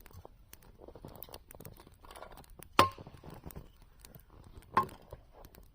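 Handling warmed food and its packaging: faint rustling and many small clicks, with two sharper clicks that ring briefly, about three and five seconds in.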